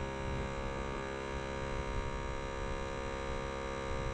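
Small 2-gallon electric air compressor running steadily with a constant hum, pumping air into an air bag jack under a pickup truck; the compressor is too small for the job.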